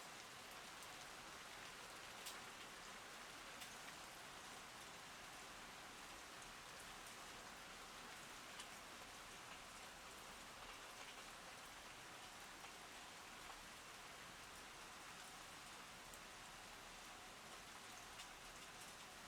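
Steady rain, with scattered sharper drops ticking close by every second or so.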